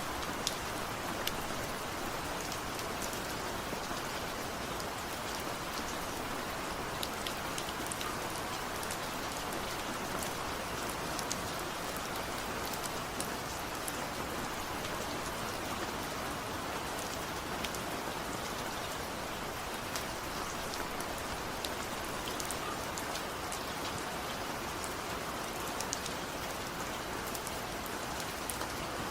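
Steady rain with many separate drops pattering sharply on a hard surface.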